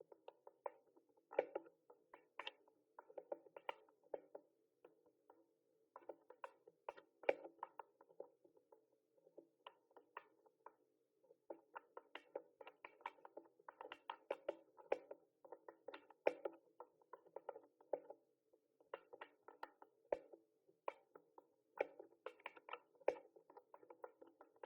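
Typing on a mechanical keyboard: fast runs of key clicks in bursts, broken by short pauses of about a second.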